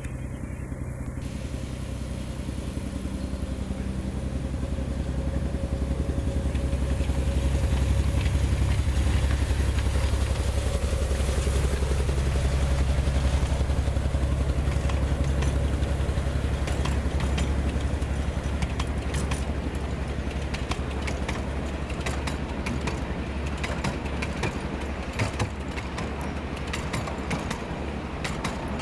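Miniature railway train passing close: the locomotive's engine drones steadily, swelling to its loudest about halfway through, then the wheels click and clatter over the track as the coaches go by.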